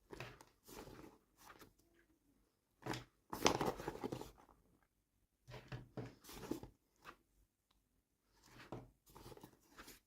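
Toy packaging being handled and torn open by hand: irregular crinkling, tearing bursts with short pauses, the longest and loudest about three to four seconds in.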